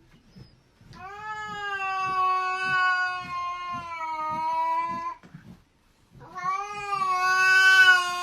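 A domestic cat yowling in two long drawn-out calls, each held at a steady pitch for about four seconds, with a short pause between them.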